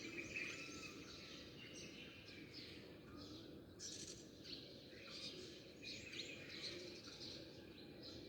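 A flock of small songbirds chirping and twittering, many short calls overlapping without a break, over a faint steady low background noise.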